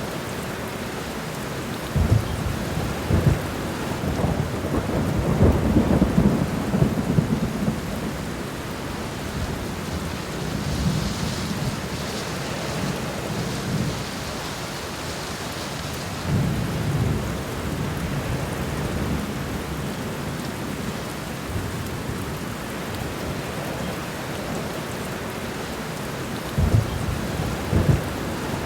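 Steady rain falling on the ground of a garden, an even hiss, with low rumbles that come and go, loudest between about two and eight seconds in and again near the end.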